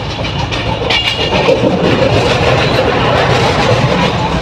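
Passenger train coach running, heard from inside: a steady, loud rumble and rattle of the wheels on the track, with a short high-pitched squeak about a second in.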